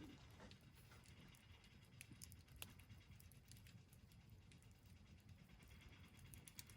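Faint campfire crackling: scattered, irregular small pops and ticks over a low, steady rumble.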